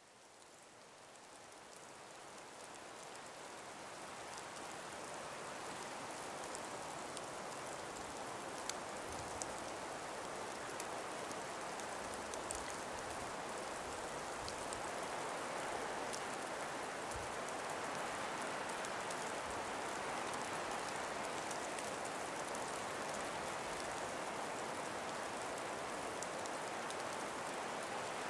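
Gentle breeze through an ice- and snow-laden forest: a soft, steady hiss that fades in over the first few seconds, with scattered faint ticks.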